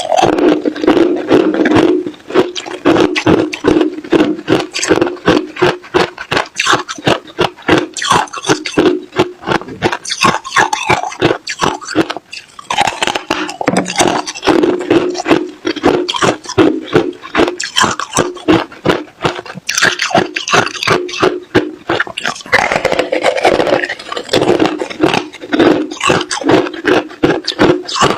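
Hard ice being crunched between the teeth, close to the microphone, in a rapid run of sharp cracking crunches. The chewing stops briefly twice.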